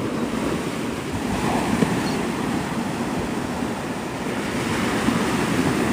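Gulf of Mexico surf washing onto the beach in a steady wash of noise, with wind rumbling on the microphone.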